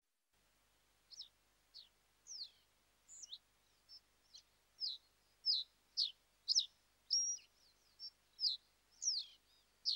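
A small bird chirping over and over: short, high notes that each sweep downward, about two a second, faint at first and louder from about five seconds in.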